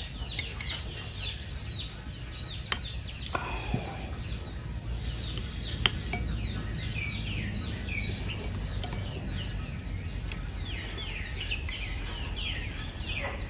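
Small birds chirping over and over in quick, falling chirps, over a steady low background rumble, with a few sharp clicks of a metal spoon against a plate, the loudest about six seconds in.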